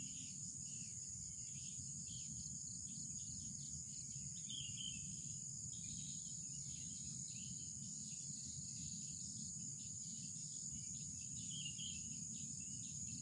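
Insects droning in a steady, unbroken high tone, with short chirping calls over it every few seconds and a low, even rumble beneath.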